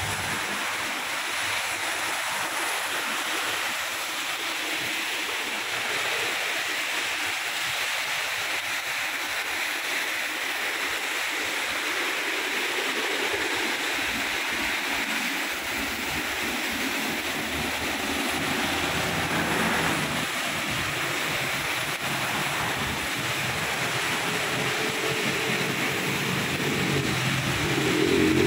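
Steady heavy rain, an even hiss of rainfall. Road traffic runs underneath, and a vehicle's engine grows louder near the end.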